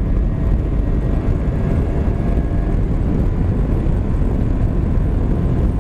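Heavy wind rushing on the microphone while riding a Honda Varadero 125 motorcycle, with a faint steady engine drone under it.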